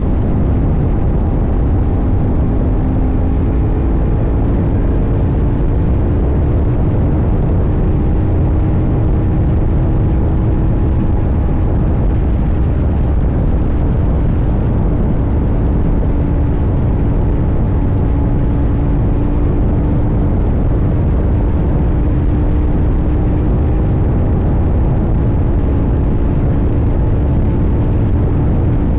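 CFMoto 800NK's parallel-twin engine running while riding, its pitch drifting slowly up and down with small changes in revs, over a heavy low rumble of wind and road noise.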